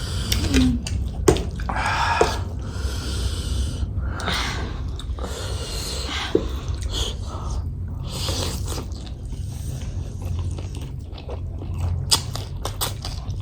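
People chewing spicy food, with several long hissing breaths and sniffs in between: a reaction to the burn of very spicy food.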